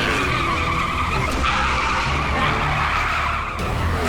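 Cartoon race-kart sound effects: a long tyre screech of several seconds over a low steady hum.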